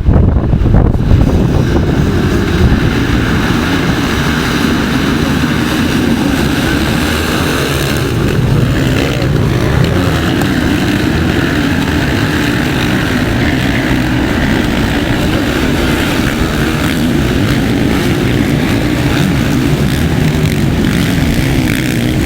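Motocross bike engines running hard during a race: loud, continuous engine noise.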